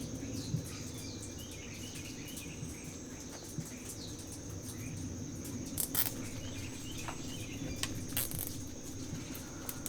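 Steady chirring of insects, with a few sharp clicks and taps scattered through, the loudest about six and eight seconds in.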